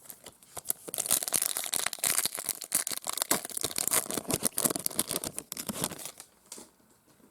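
A foil trading-card pack being torn open and its wrapper crinkled, a dense run of crackling that dies down about six seconds in.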